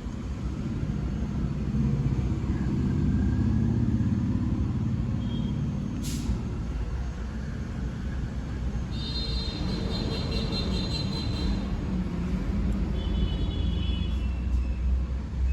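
Maruti Suzuki Ertiga's four-cylinder petrol engine running with a steady low rumble that swells for a few seconds near the start. A sharp click comes about six seconds in, and short high-pitched tones are heard in the second half.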